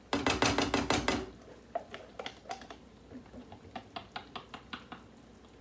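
A metal utensil clattering and scraping against a pot on the stove: a quick, loud run of scrapes and clicks in the first second, then lighter scattered taps and clicks.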